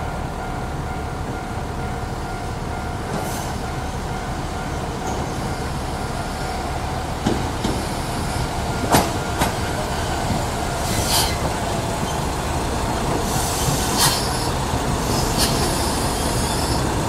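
Hitachinaka Seaside Railway KiHa 3710 diesel railcar running with a steady engine drone. From about halfway through come short sharp squeals and clicks of wheels on rail as the car moves, and the sound grows slowly louder.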